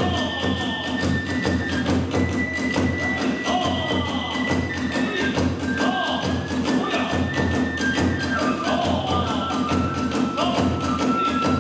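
Kagura hayashi ensemble playing a fast, driving rhythm: a bamboo transverse flute holds long notes that step up and down over rapid drum beats and a dense clatter of small hand cymbals.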